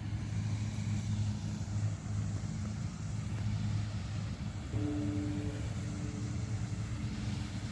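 A motor engine running steadily with a low, pitched rumble. A second, higher steady hum joins about five seconds in.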